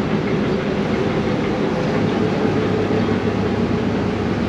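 Ferry engine running with a steady low drone and a constant hum.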